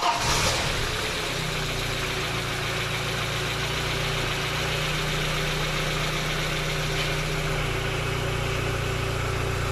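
Audi A4 1.8 turbo four-cylinder engine on its first start after a rebuild, just caught, a little louder for the first half second, then idling steadily while its hydraulic valve lifters settle as the fresh oil reaches them.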